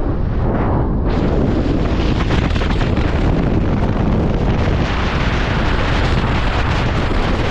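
Strong storm wind blasting steadily across the microphone, with a loud, rushing roar and a brief easing of the hiss in the first second.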